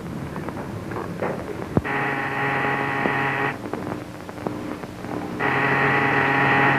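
A steady buzzing tone sounds twice, each time for about a second and a half, starting and stopping sharply, with faint clicks and crackle in between.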